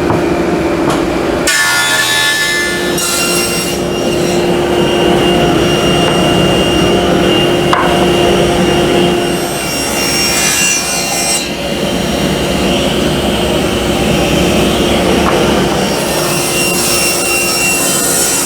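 Power woodworking machines, a planer or saw, cutting poplar and white oak boards: a steady motor tone under the noise of the wood being cut. The sound changes about a second and a half in and again about eleven seconds in.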